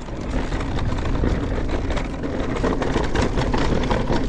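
Mountain bike riding a dirt trail descent: a steady rush of wind and tyre noise with many sharp clicks and rattles from the bike over rough ground.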